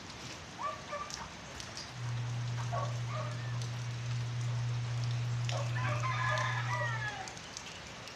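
Chickens calling, with one longer crow from about five and a half seconds in, over a steady hiss of light rain. A steady low hum starts about two seconds in and stops near seven seconds.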